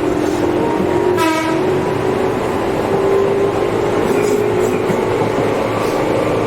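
Tobu 8000 series electric train under way, heard from inside the car: its DC traction motors whine with a tone that slowly rises in pitch over steady wheel and rail noise. About a second in, a short horn-like tone falls in pitch.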